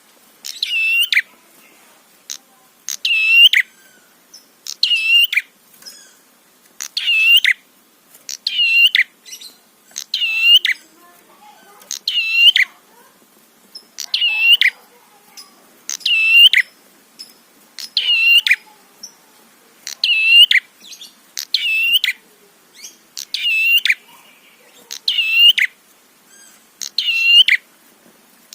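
Prinia (prenjak) song: a short, sharp, high-pitched phrase of rapid notes, repeated about every two seconds.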